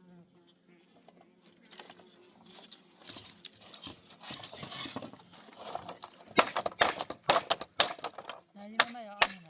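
Rustling and small handling noises, then a rapid, irregular series of sharp knocks on timber from tool strikes, with a voice briefly near the end.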